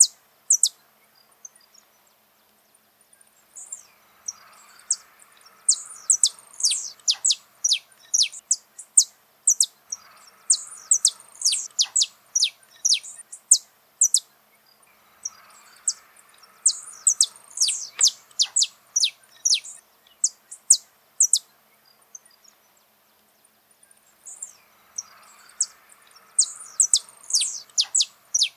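Saffron finch singing: phrases of quick, sharp, high notes that each sweep steeply down in pitch, repeated in bursts of a few seconds with short pauses between.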